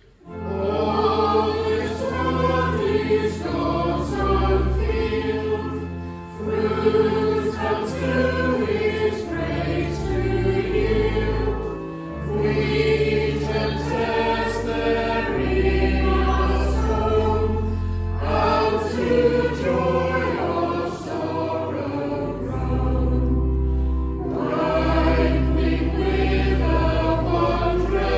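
Church congregation and choir singing a hymn with organ accompaniment. The organ's low notes are held under the voices, and the singing comes in lines of a few seconds with short breaks between them.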